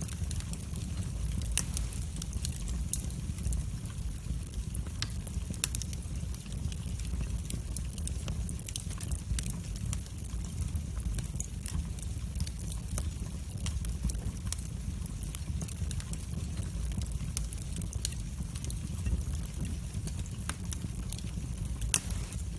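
Wood fire in a fireplace crackling: irregular sharp pops and snaps over a steady low rumble of the flames, with a couple of louder pops about one and a half seconds in and near the end.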